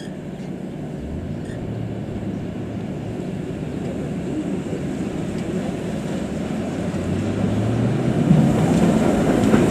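A train approaching, its low rumble growing steadily louder, with a faint steady hum under it.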